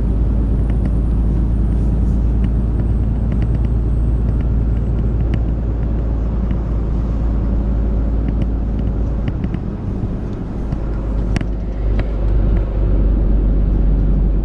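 Heavy Scania truck heard from inside the cab while driving: a steady low engine and driveline rumble with road noise, and scattered light clicks and rattles. The rumble dips briefly about two-thirds through, then swells again.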